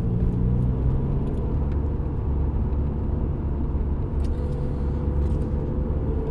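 Inside the cabin of a 2007 VW Golf GT TDI while it is driving: the 2.0-litre BKD diesel and the road make a steady low drone, with a fainter steady tone above it.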